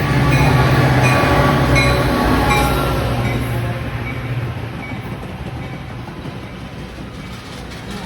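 Train passing, its running noise loud at first with a steady low hum, then fading steadily over the second half as it moves away.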